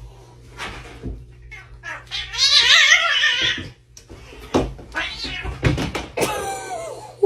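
A loud animal cry with a wavering pitch, lasting about a second and a half from about two seconds in, and a shorter wavering cry near the end. Scattered knocks and thuds run around them, and the sound cuts off abruptly at the end.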